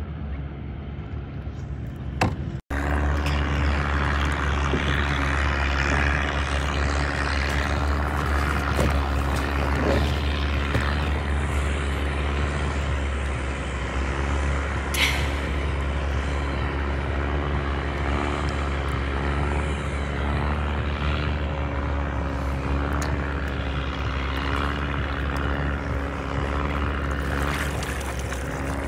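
A motorboat engine running steadily, a constant low drone with wind and water noise over it. It drops out for an instant about three seconds in, then carries on unchanged.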